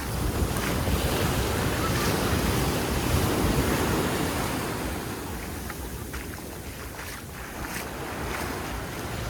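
Sea waves surging and washing in, swelling over the first few seconds and then easing off, with wind buffeting the microphone.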